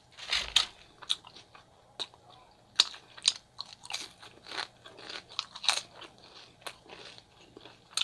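Close-miked chewing of a homemade chicken, bacon and lettuce gyro, with irregular crunches and sharp mouth clicks.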